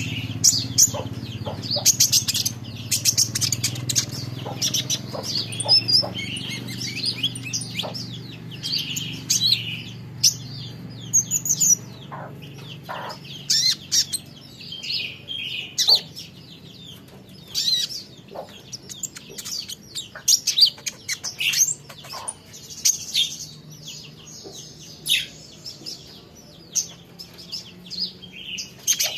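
A kolibri ninja sunbird chirping and twittering in quick, high, busy bursts. A low hum in the background fades away in the first third.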